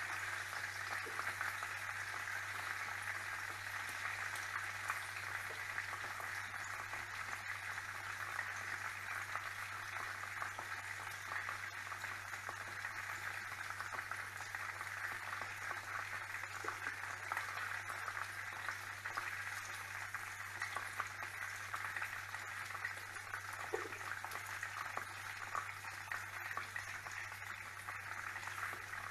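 Chicken frying in hot oil: a steady sizzle full of fine crackling, over a low steady hum.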